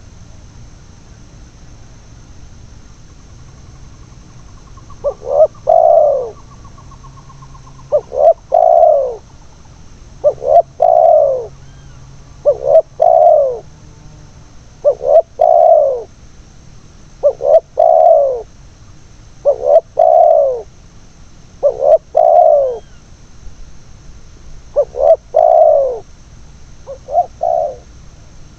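Spotted dove (tekukur) cooing: a call of a couple of short notes and a longer falling coo, repeated every two to three seconds from about five seconds in.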